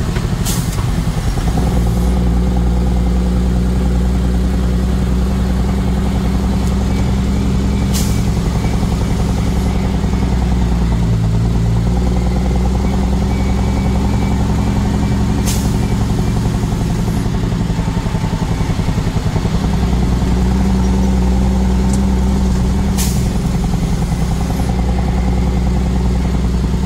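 Heavy truck engine running steadily under way, its pitch shifting a couple of times as it works, with four brief sharp sounds spread through.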